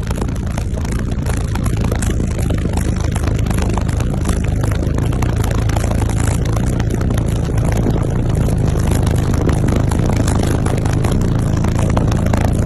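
Car audio subwoofers playing a loud, sustained deep bass tone, the kind used for hair tricks, with a rough, buffeting rush over the top.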